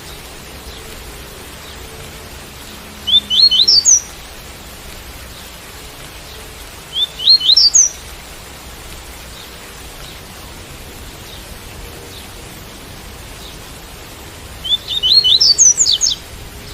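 Double-collared seedeater (coleiro) singing the 'tui-tui' song type: three short phrases of quick notes climbing in pitch, the last one a little longer. A steady rain sound runs underneath.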